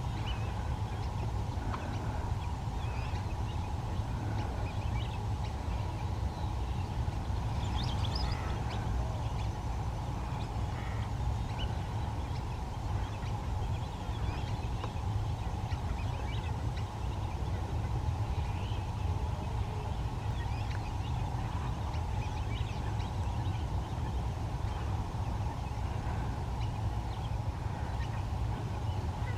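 Outdoor ambience: many short bird calls scattered over a steady low rumble and a constant hum.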